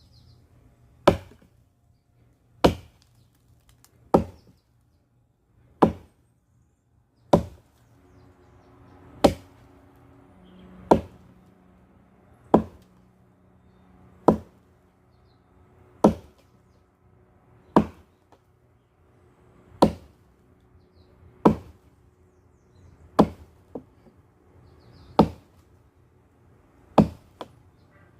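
Firewood being chopped with an axe: sharp single blows at a steady pace, about one every second and a half to two seconds, sixteen in all.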